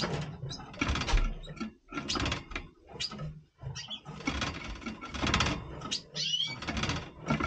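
Red siskins vocalising in repeated bursts of scratchy twittering, with a brief higher chirp about six seconds in.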